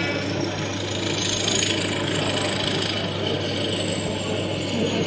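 Model train running on a layout: a faint high motor whine that slowly falls in pitch, over steady hall noise with a low hum.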